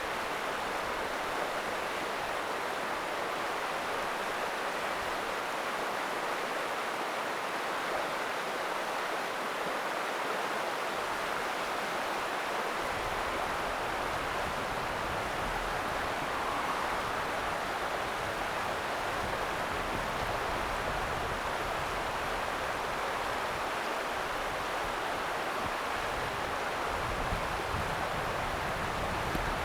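The Ota River flowing: a steady, even rush of moving water. From about halfway in, an uneven low rumble comes and goes underneath it, growing near the end.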